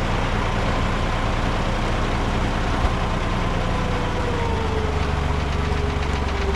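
Heavy engine running steadily at low speed, with a thin whine that drops slightly in pitch about four seconds in.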